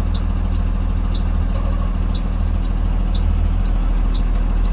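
2020 Blue Bird Vision school bus engine running with a steady low drone, heard from on board. A light tick repeats about twice a second over it.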